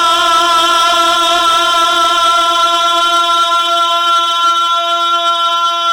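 A man's voice singing a naat, holding one long steady note on a drawn-out syllable of the verse.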